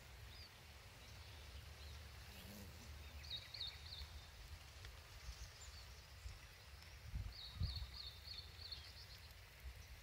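Faint birdsong in open grassland: scattered high chirps and two short trills of rapid repeated notes, one about three seconds in and a longer one about seven seconds in, over a steady low wind rumble on the microphone.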